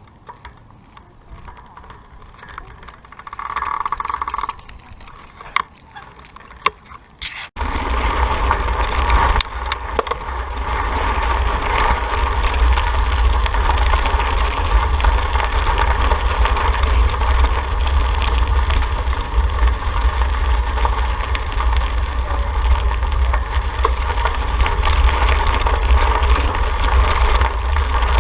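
Riding noise from a bicycle ride: fairly quiet at first with a brief high tone and a few clicks, then about seven and a half seconds in a sudden, steady, heavy wind rumble on the microphone with road noise.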